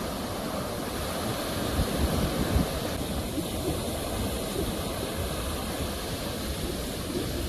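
Sea waves washing on a shore: a steady rush of surf, with a louder surge about two seconds in.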